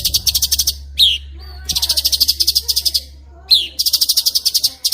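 Songbird singing rapid roll-speed trills: three bursts of very fast repeated high notes, each about a second long, the second and third each opened by a sharp downward-sweeping whistle.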